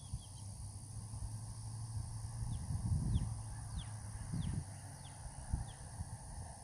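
A bird calling with a series of about six short, high, falling notes in quick succession, over a low rumbling noise that swells a couple of times.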